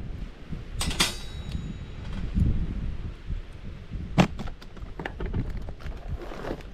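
Wind rumbling on the microphone, with several sharp knocks and clinks: a ringing clink about a second in, another knock about four seconds in, and lighter ticks in between.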